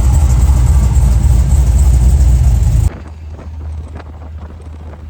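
Vehicle driving, a loud, deep engine and road rumble that cuts off abruptly about three seconds in, giving way to a much quieter low rumble.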